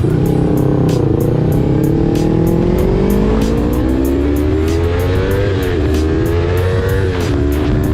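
Motorcycle engine accelerating, its revs climbing steadily and then dropping sharply twice as it shifts up, about five and a half and seven seconds in. Background music with a steady beat plays over it.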